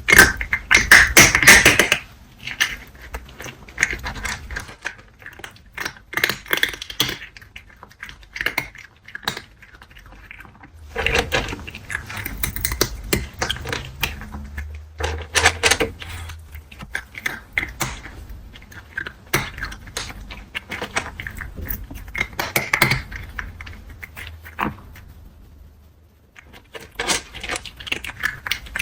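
A cat crunching dry kibble close to the microphone: irregular crackly crunches and small clicks, with the loudest burst in the first two seconds and short pauses between bites.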